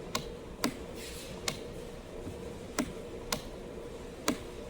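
Six sharp, irregularly spaced clicks and taps over a steady background hum.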